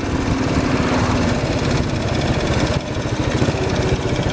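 Royal Enfield Bullet 500's single-cylinder engine thumping at low revs through its replacement exhaust as the bike slows, the beats spacing out and getting slower.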